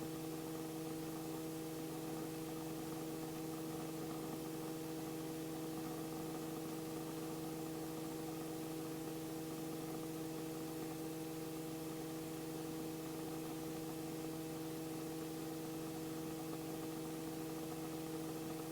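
Steady, faint hum of several even tones with a light hiss over it: the Robinson R44 helicopter in flight, heard through its intercom feed. It does not change at all.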